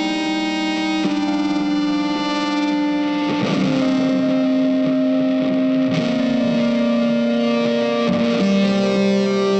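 Background music on an electric guitar with effects, holding long sustained notes that change every two to three seconds.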